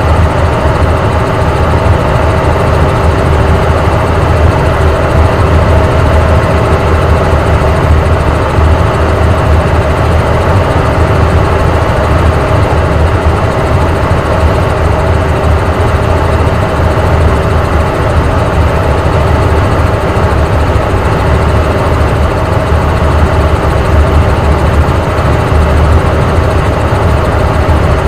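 Helicopter in flight, heard on board: a loud, steady drone of turbine and rotor, with a deep rumble and a few constant tones that do not change.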